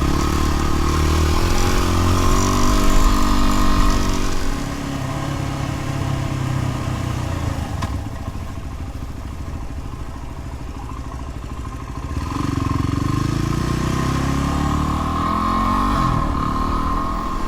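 Dual-sport motorcycle engine pulling up in pitch under throttle, easing off about four seconds in, then picking up again about twelve seconds in.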